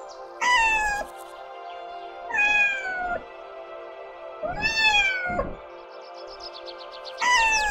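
A cat meowing, four meows about two seconds apart, each rising and then falling in pitch, over steady background music.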